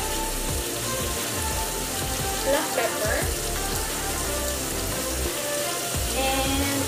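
Spices and aromatics frying in a hot aluminium pot, a steady sizzle as ground curry, cumin and turmeric are spooned in, with background music over it.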